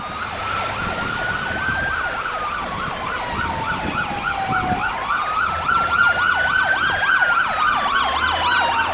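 Emergency vehicle sirens: a slow wail rises and falls twice while a second siren yelps rapidly over it.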